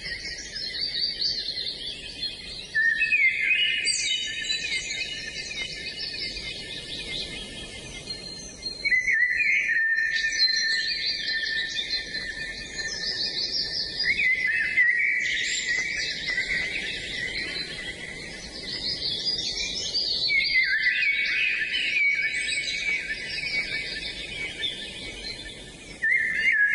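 Several songbirds singing at once, a dense chorus of overlapping warbles, trills and chirps, with a fresh loud burst of song every five or six seconds.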